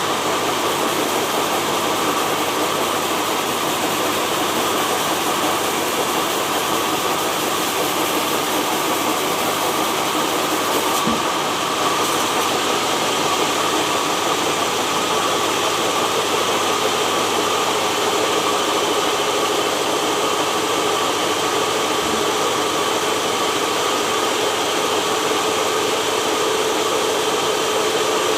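Sawmill machinery running steadily: a dense, even mechanical noise with a faint constant hum.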